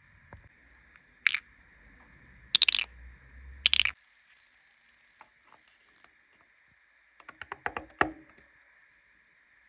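Several sharp clicks and knocks, then a quick run of small ticks ending in a louder click about eight seconds in.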